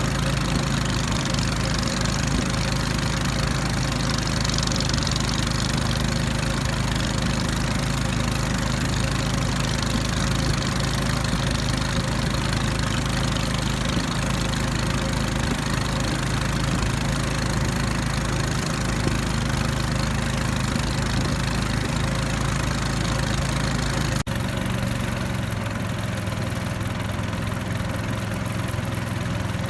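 Small outboard motor on a river raft running steadily. About 24 seconds in the sound changes abruptly, with less low rumble.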